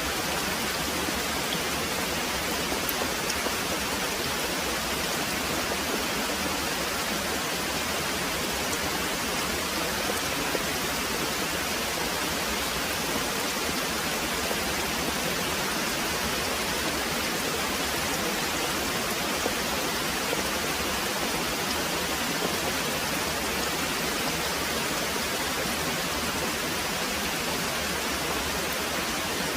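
Very heavy rain pouring steadily, an even, unbroken hiss.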